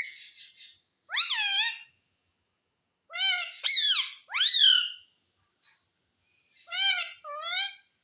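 Pet parrot giving high-pitched, pitch-sliding calls in short bursts: one about a second in, three in quick succession a little later, and two more near the end.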